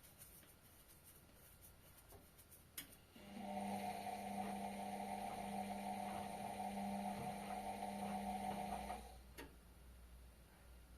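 Indesit washing machine: a click, then a steady electrical hum from one of its parts for about six seconds, cut off with another click.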